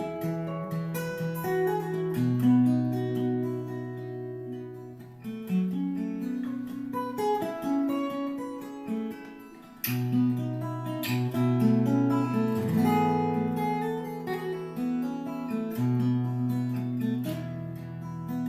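Acoustic guitar played solo in an instrumental passage between sung verses, with plucked melody notes over held bass notes.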